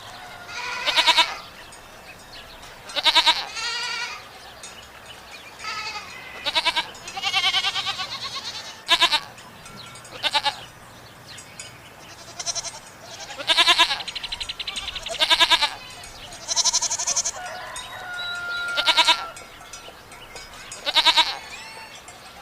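Goats bleating: about a dozen separate wavering calls, one every second or two.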